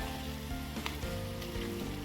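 Squid, peppers and tomato sauce sizzling as they fry in a paella pan, with one light click a little under a second in. Background music plays over it.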